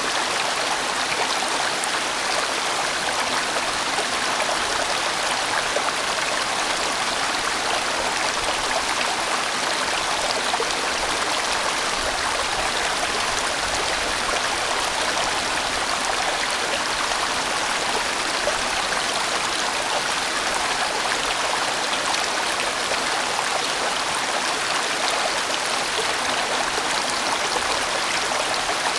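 A large mountain stream rushing over rocks, making a steady, even sound.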